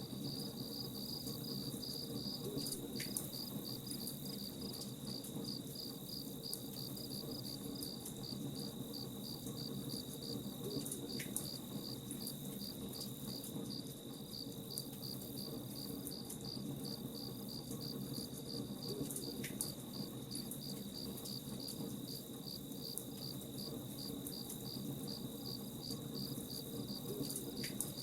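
Crickets chirping in a steady, even rhythm of about two to three pulses a second, over a continuous high insect trill and a low steady background haze, with a faint sharp click every eight seconds or so.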